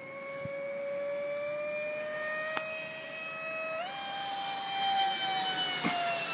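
Electric ducted fan of an RC Mirage 2000 jet model whining steadily. Its pitch climbs slowly, steps up sharply about four seconds in as the throttle is advanced, then eases down slightly near the end.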